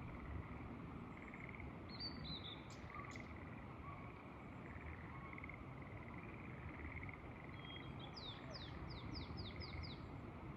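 Frogs trilling in short repeated bursts over a steady low rush of wind. A bird calls a few notes about two to three seconds in, then near the end sings a quick run of about seven falling notes.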